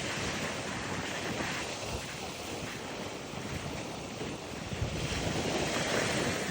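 Ocean waves breaking and washing up a beach, a steady rush of surf that swells near the end, with wind buffeting the microphone.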